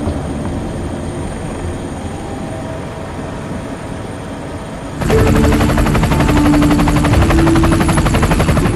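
Aircraft engine drone, steady at first. About five seconds in, a much louder sound of rapidly pulsing blade chop cuts in suddenly.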